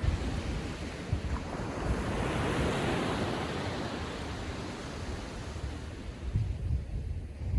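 Small ocean waves breaking and washing up the sand, with wind buffeting the microphone. A wash swells about two seconds in and ebbs away toward the end.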